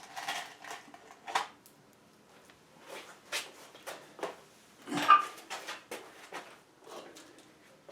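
Sheet-metal heat duct pipe being handled and fitted: scattered light clanks and taps of thin metal, the loudest about five seconds in.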